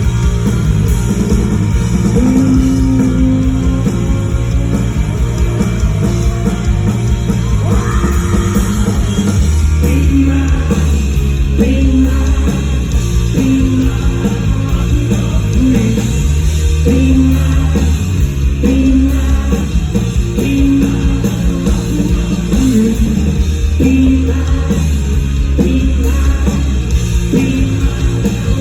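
Live rock band playing loudly: electric guitar, bass and drums with singing, a steady driving beat throughout.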